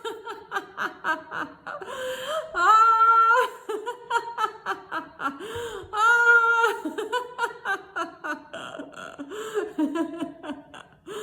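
A woman laughing on purpose in a laughter-yoga exercise: quick bursts of laughter broken by two long drawn-out high 'ah' calls, about three and six seconds in.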